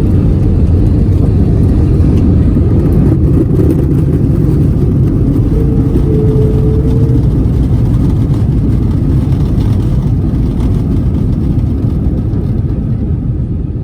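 Airbus A321 jet engines and airframe heard from inside the cabin as a loud, steady roar and rumble on the landing roll, easing off over the last couple of seconds as the aircraft slows.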